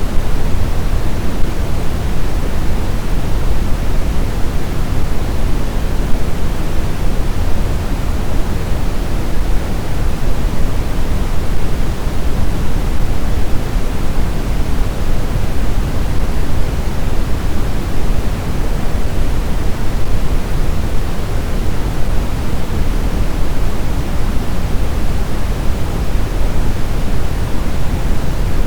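Blizzard wind blowing steadily: an even, deep noise that stays the same throughout, without distinct gusts or separate events.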